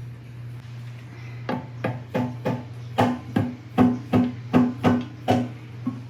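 About a dozen sharp taps, roughly three a second, start about a second and a half in. Each has a short ringing note, over a steady low hum. They fit an LS 5.3 V8's oil pan being knocked into line so its rear face sits flush with the engine block.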